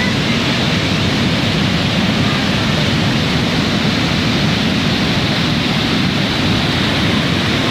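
Steady, loud rushing of fast-flowing floodwater.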